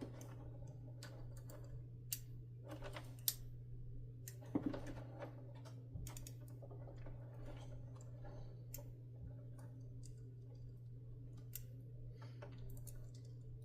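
Scattered small clicks and taps of hands working on the vacuum's wire connectors and plastic parts, a few sharper ones among them, over a steady low hum.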